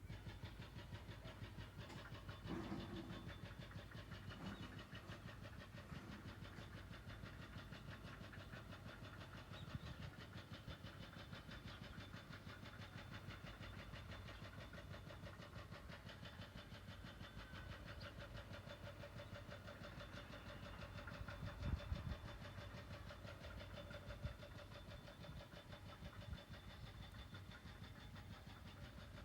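Faint outdoor ambience: a steady low rumble like distant road traffic, with a few faint thin steady tones above it and a brief low swell about three quarters of the way in.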